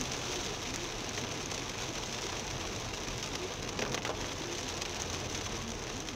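Heavy rain falling on a moving car's roof and windscreen, heard from inside the cabin as a steady hiss mixed with tyre noise on the wet road. A few sharper taps come about four seconds in.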